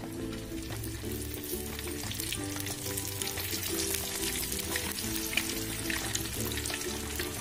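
Egg-coated sempol (skewered flour-and-vegetable dough) sizzling and crackling as it deep-fries in hot oil in a wok. The crackle grows denser about a second in.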